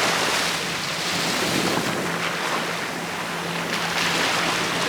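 Ocean surf washing onto the beach: a steady rush of breaking waves that swells again about four seconds in. A faint steady low hum sits underneath from about halfway through.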